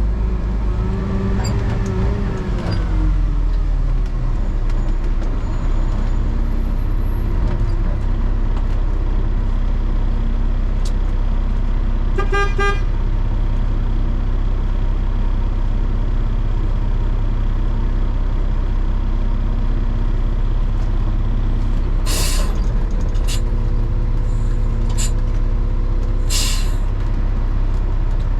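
Garbage truck running with a steady low hum and a falling pitch glide in the first few seconds. A short horn toot comes about twelve seconds in, and there are several short bursts of air hiss near the end.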